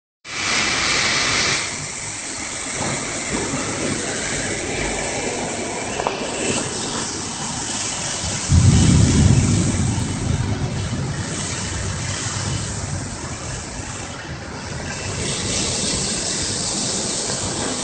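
Heavy rain falling as a dense, steady hiss. Just past the middle a louder low rumble swells up and fades away over a few seconds.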